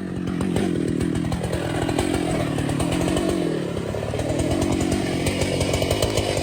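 Chainsaw running while cutting a tree, its engine note sagging under load about a second and a half in and again near four seconds, then picking up.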